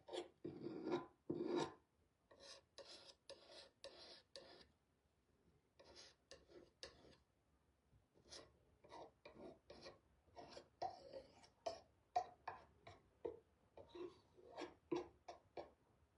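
Short, scratchy rubbing strokes against a surface, in irregular runs separated by brief pauses.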